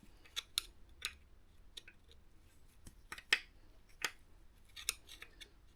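Light, irregular metallic clicks and taps of a hand tool against small engine parts as a spring is worked off the cam belt tensioner.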